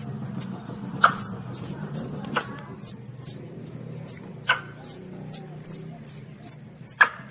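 Baby Asian palm civet (luwak) calling: a steady run of high, thin squeaks that slide downward, about two or three a second. Four sharper clicks fall among them, the last near the end. A low steady hum sits underneath.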